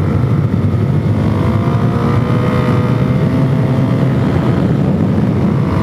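Suzuki DR-Z400S single-cylinder four-stroke engine, fitted with a stock header and a Powercore slip-on muffler, pulling under way in fourth gear. Its pitch climbs gently as the bike gathers speed, then holds steady.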